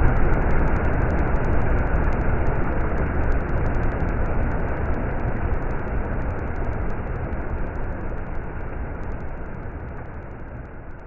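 Stream water flowing over rocks, a steady rushing, gradually fading out toward the end.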